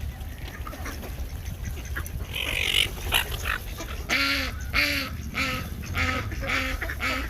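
Duck quacking in a quick run of about seven quacks, roughly two a second, starting about halfway through.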